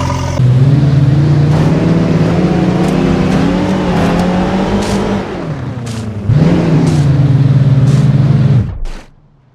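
Truck engine revving up and running at a high, steady pitch, easing off about five seconds in, then revving up again and cutting off abruptly near the end.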